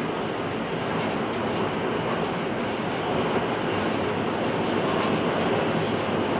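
Electric passenger train running on the line, heard from inside the carriage: a steady noise of wheels on rail and running gear, growing slightly louder.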